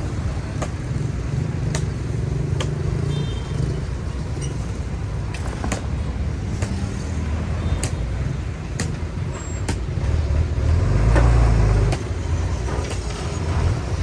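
Heavy diesel earthmoving machinery running with a steady low rumble and scattered sharp clanks. The engine swells louder for a moment about three quarters of the way through.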